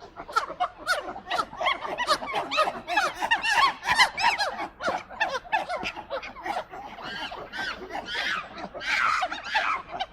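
A flock of gulls calling over one another: many short, arched, laughing cries overlapping without a break.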